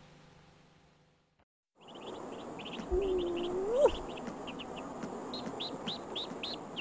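Faint hiss, a moment of silence, then small birds chirping in quick short calls. About three seconds in, a single low hooting tone holds for about a second and rises sharply at its end; it is the loudest sound.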